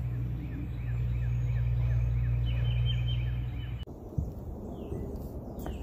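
A songbird calling a rapid run of short, downward-sliding chirps, about four a second, over a steady low hum. The hum stops abruptly about four seconds in, leaving fainter bird calls.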